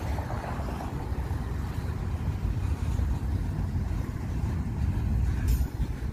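Long intermodal freight train rolling past: a steady low rumble from the passing container cars, with wind buffeting the microphone. There is a brief click about five and a half seconds in.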